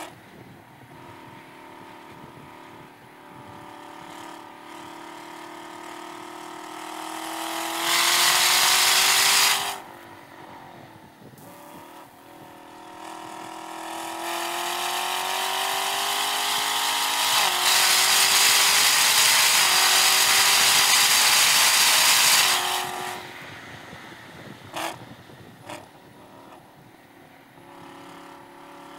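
Chevrolet Camaro ZL1 1LE's supercharged V8 under hard acceleration on track: the engine note climbs, falls away as the throttle is lifted, then climbs again for a longer pull with a shift about two-thirds of the way through. It drops back off near the end for braking, with two short sharp cracks.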